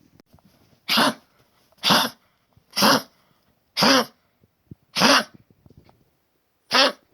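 A 13-year-old dog coughing: six short coughs, about one a second, with a longer pause before the last. It is the cough of a collapsed trachea, in a dog with stage 3 congestive heart failure.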